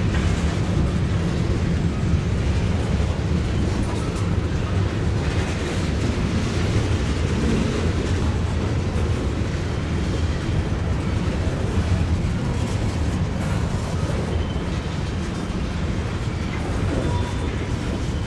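Tank cars of a slow-moving freight train rolling past, their steel wheels on the rails making a steady low rumble.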